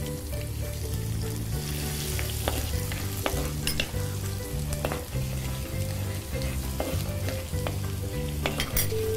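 Chopped garlic, dried red chillies and fennel seeds sizzling in hot coconut oil in a clay pot as they are stirred with a wooden spatula. There is a steady hiss, with occasional clicks where the spatula knocks the pot.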